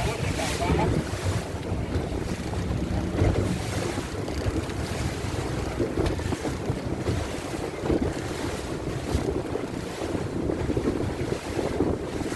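Wind buffeting the microphone over the rush of water and a steady low rumble from a boat under way at sea.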